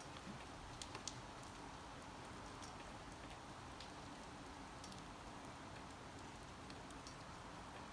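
Light rain falling, a steady faint hiss with scattered drops ticking on a surface, two sharper drop hits about a second in.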